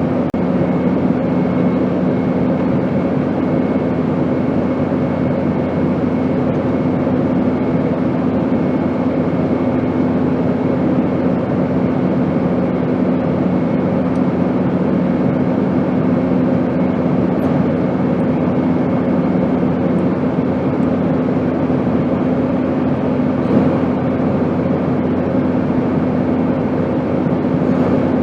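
Airplane in flight: a steady rush of engine and airflow noise with a constant low hum. One of the lower hum tones drops away about twenty seconds in.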